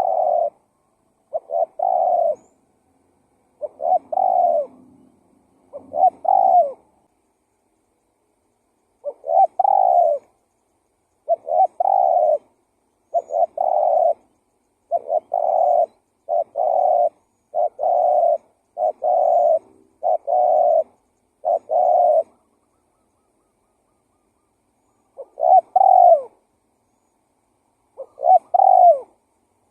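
Spotted dove (tekukur) cooing over and over, a lure call. Each short, low coo phrase comes about once every second or so, with a gap of a couple of seconds about a quarter of the way in, and a longer gap before the last two calls.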